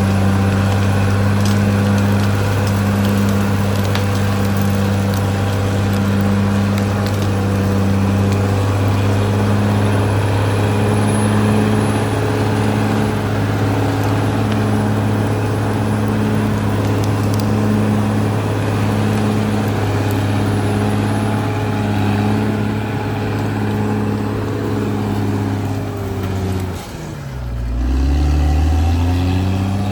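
Caterpillar D6R XL bulldozer's diesel engine running steadily with a pulsing drone. About 27 seconds in, the engine speed drops sharply and then climbs back up, as when the engine is pulled down under load and recovers.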